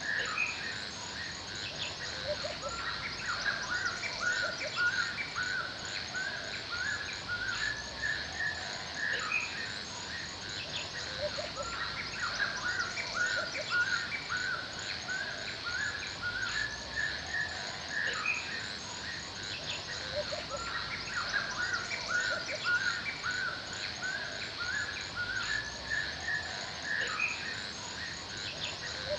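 Forest ambience: many small birds chirping and calling in quick, repeated short notes over a steady high hiss.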